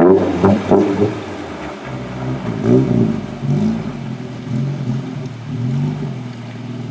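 An off-road vehicle's engine revving up and down, its pitch rising and falling several times.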